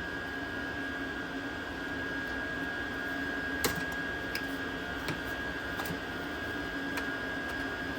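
A steady machine hum with a thin high whine, with a few light clicks and taps from handling a diesel heater's control board and its plug connectors, one a little sharper a few seconds in.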